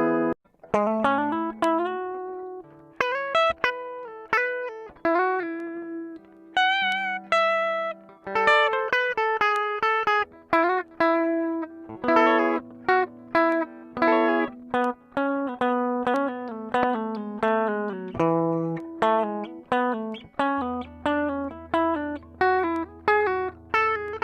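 Squier Bullet Mustang electric guitar played clean on its bridge pickup, with no effects or distortion: a continuous run of picked single notes and chords, with vibrato on some held notes.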